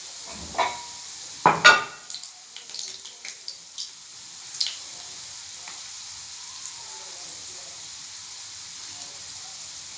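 Rolls deep-frying in hot oil in a pan: a steady sizzle, with a few sharp crackles and pops in the first five seconds, the loudest about one and a half seconds in.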